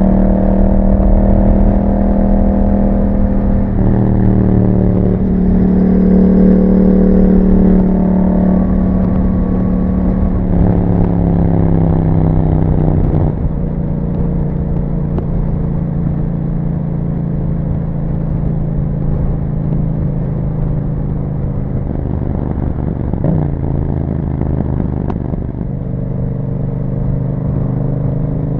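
2021 Yamaha MT-07's parallel-twin engine running through an Akrapovic exhaust while riding. The engine note eases down in pitch several times in the first half, holds steady for a long stretch, then dips briefly and picks up again near the end.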